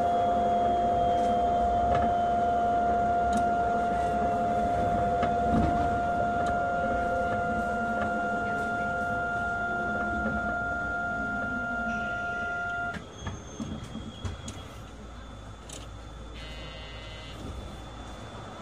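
Astram Line 6000-series rubber-tyred automated guideway train heard from inside the car as it slows to a stop: the drive motor whine falls steadily in pitch beneath a steady high electrical tone, and both cut off suddenly about 13 seconds in as the train halts. The car is much quieter after that, with a short electronic beeping near the end.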